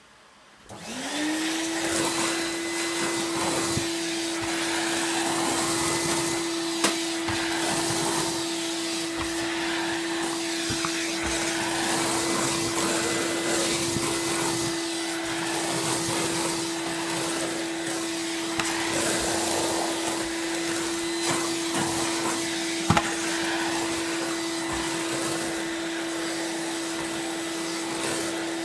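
Numatic OCS vacuum cleaner (NV370 motor head) switched on about a second in, its motor rising in pitch to full speed and then running steadily, with two sharp clicks along the way. It is sucking up shredded paper in a suction test.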